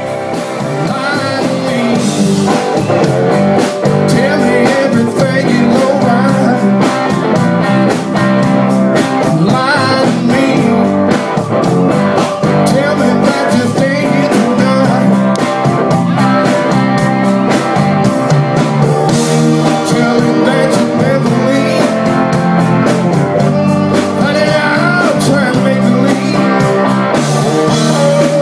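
Live blues band playing, with guitar and a steady drum beat.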